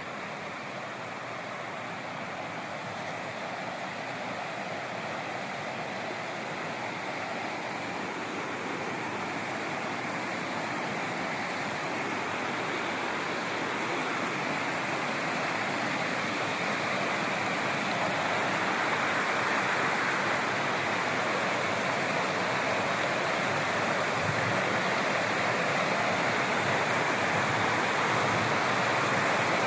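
Steady rush of falling water from a waterfall, growing gradually louder.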